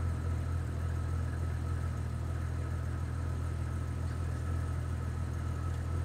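1997 Jeep Grand Cherokee's engine idling steadily, an even low hum.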